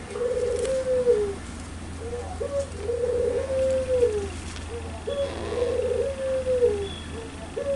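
Puter pelung dove cooing loudly and repeatedly: three long coos, each a short opening note followed by a long warbling note that drops in pitch at its end, with a fourth starting near the end.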